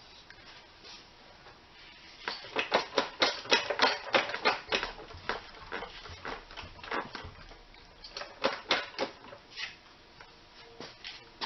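A quick run of sharp clicks and taps from hand tools working on the tractor, about five a second for a few seconds starting about two seconds in, then thinning to scattered clicks.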